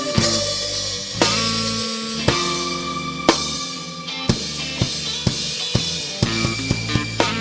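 A rock band playing: drum kit strikes about once a second with cymbal wash over held bass and keyboard notes, the drums moving to a quicker beat about six seconds in.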